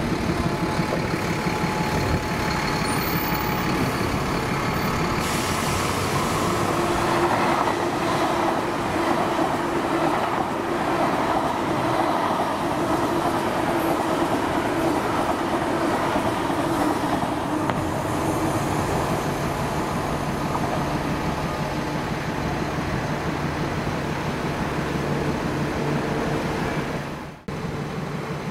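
Diesel passenger train running past, a steady engine drone over wheel and rail noise, with a lower steady tone joining about two-thirds of the way through. The sound breaks off abruptly for a moment near the end.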